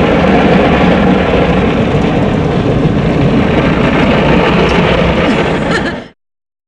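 Automatic car wash running over the car, heard from inside the cabin: a loud, steady rush of water and machinery that cuts off abruptly about six seconds in.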